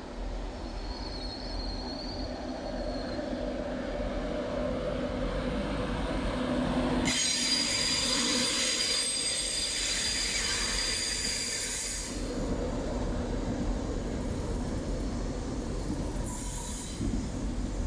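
LNER Class 91 electric locomotive and Mk4 coaches rolling slowly past on curved track, the rumble rising as the train nears. About seven seconds in a high-pitched wheel squeal sets in for about five seconds, with a shorter squeal near the end.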